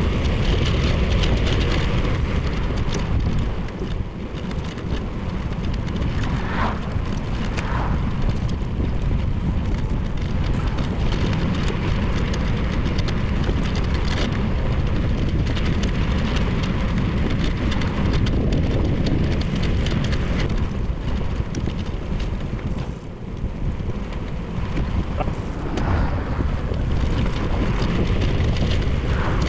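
Wind buffeting a bicycle-mounted action camera's microphone while riding: a steady, dense rush with a few faint short chirps in it.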